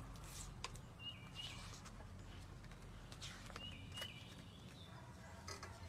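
Faint bird chirps in the open air: two short calls, about a second in and again past the middle, over a low background hum, with a few soft clicks and rustles.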